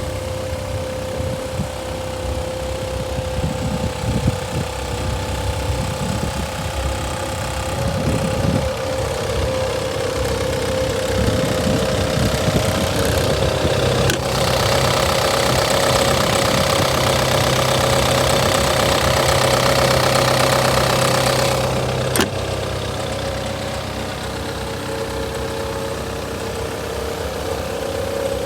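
Kubota U48-4 mini excavator's diesel engine running steadily with a constant whine. About halfway through it runs louder and harder for roughly eight seconds, then drops back to idle with a sharp click.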